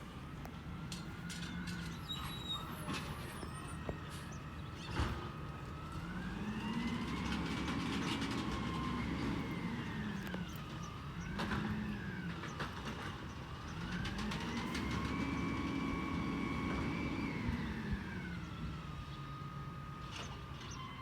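Peterbilt 320 garbage truck's engine revving up with the hydraulic pump whining, holding high, then dropping back to idle, twice with a short blip in between, as the truck's hydraulics are worked. A sharp knock about five seconds in.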